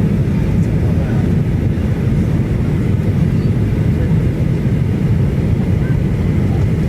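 Steady low engine and air noise inside the cabin of a Boeing 737-800 with its CFM56-7B turbofans running.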